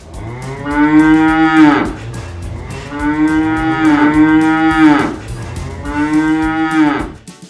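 A domestic cow mooing three times, each moo a long, drawn-out call, the middle one the longest.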